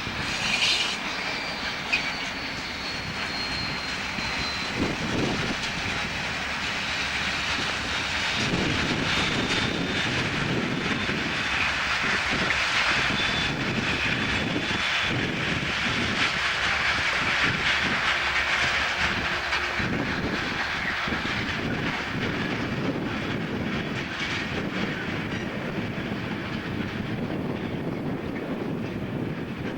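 V100 diesel locomotive running with timber wagons rolling along the track, the wheels clicking and knocking over the rail joints. A thin high squeal slowly falls in pitch during the first few seconds.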